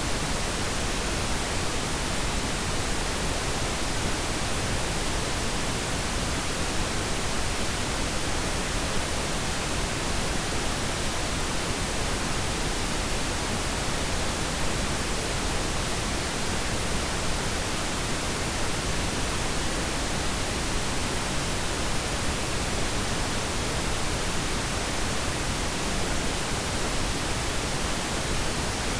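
Steady pink noise: an even, unchanging hiss, softer in the highs than white noise.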